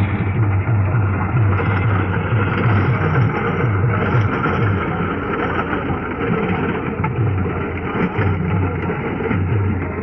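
Tractor diesel engine running steadily under load while working a rotavator, its low engine note pulsing unevenly over a dense churning noise.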